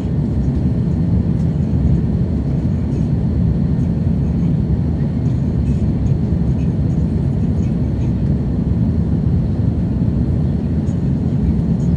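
Steady in-cabin engine and airflow noise of an Airbus A330-200 with General Electric CF6 engines: a loud, low rumble with a faint high whine, holding steady.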